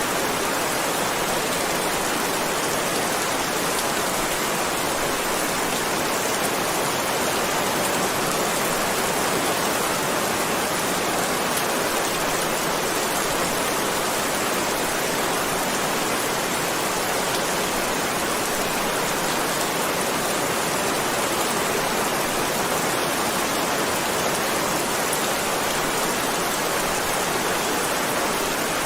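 Heavy rain falling steadily, an even hiss with no thunder or separate drops standing out.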